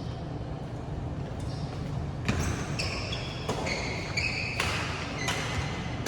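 Badminton rally: a series of sharp racket hits on the shuttlecock, coming every half second to a second, mixed with short high squeaks of shoes on the court floor, in a reverberant hall.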